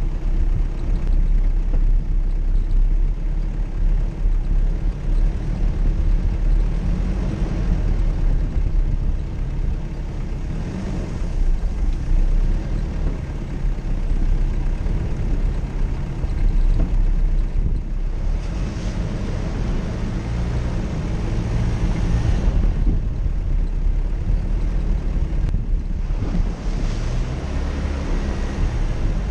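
Off-road 4x4 driving over rough ground: a loud, steady low engine and drivetrain rumble, with wind buffeting the microphone. A harsher hiss swells about two-thirds of the way in and again near the end.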